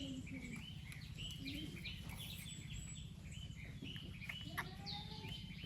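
Birds chirping: many short, high chirps in quick succession, over a low steady hum.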